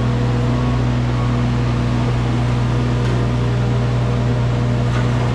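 Wacker Neuson mini excavator's diesel engine running at a steady speed, an unchanging hum without revving.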